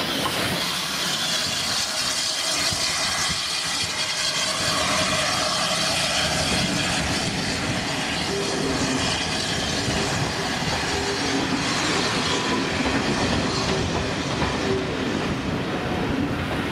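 Steam-hauled train passing close by: steady running noise and clatter of coach wheels over the rail joints as the locomotive's tender and then the coaches roll past, with a faint wheel squeal in the second half.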